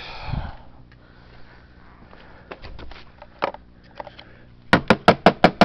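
Small parts being handled, with scattered light clicks, then near the end a quick run of about seven sharp knocks, about five a second, as a carburetor part is tapped against a hard surface to knock the dirt out.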